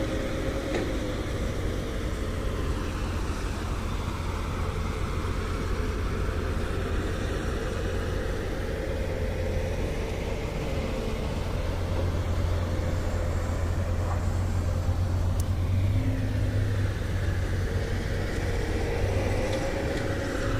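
A motor vehicle's engine running steadily with a low rumble and a faint wavering tone.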